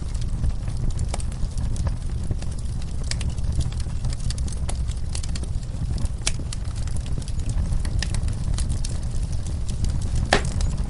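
Wood fire in a fireplace crackling: a steady low rumble of the flames under irregular sharp snaps and pops, the loudest pop about ten seconds in.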